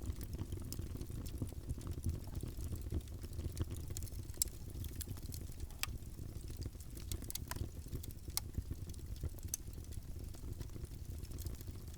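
Wood fire burning in a fireplace: a steady low rumble of flames with irregular crackles and sharp pops, a few of them louder than the rest.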